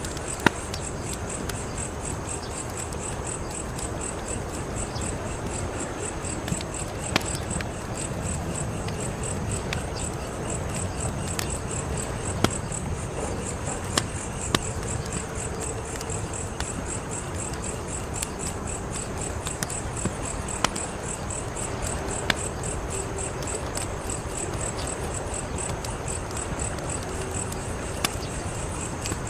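Wood fire crackling, with about a dozen sharp pops scattered over a steady rustling bed. Crickets chirp steadily in the background.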